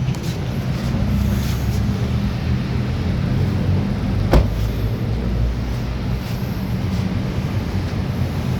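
Mazda 3's 1.5-litre four-cylinder petrol engine running steadily, with a single sharp click about four seconds in.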